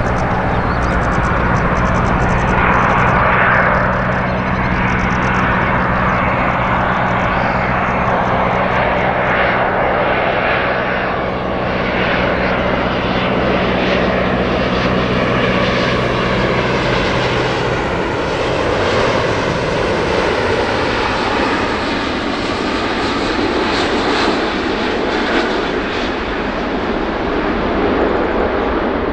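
Jet airliner's engines, loud and steady, with a low hum that drops away about eighteen seconds in.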